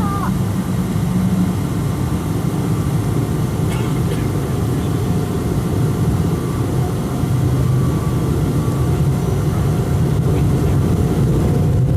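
Boeing 777-200 jet engines and airflow heard from inside the passenger cabin: a steady, loud low rumble with a hiss above it, growing slightly louder toward the end.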